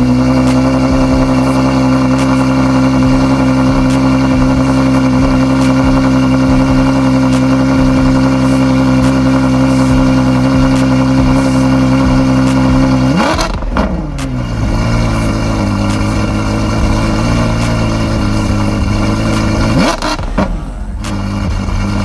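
Ferrari F12berlinetta's 6.3-litre V12 idling high and steady just after starting. About thirteen seconds in it briefly rises in pitch, then settles to a lower idle; another short rise in pitch comes near twenty seconds.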